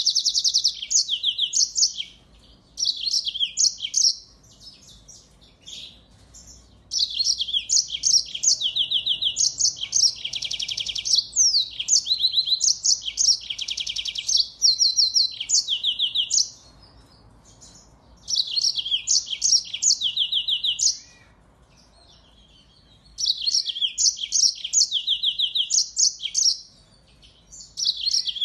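Finches singing, from a mixed recording of yellow-fronted (Mozambique) canary, black-throated canary and large-billed seed finch. The song comes in bursts of fast, high twittering trills and chirps lasting a few seconds each, with short pauses between them, the longest run in the middle.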